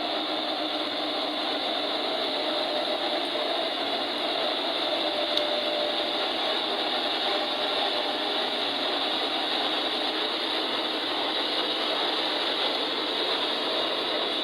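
Caterpillar tractor running, a steady mechanical clatter and engine noise without pauses.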